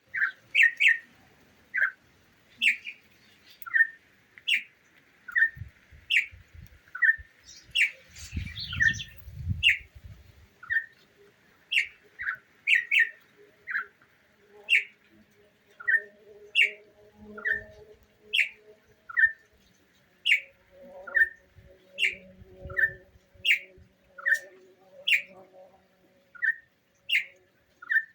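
A bird calling over and over in short chirps, about one a second, alternating a lower steady note with a higher, falling one.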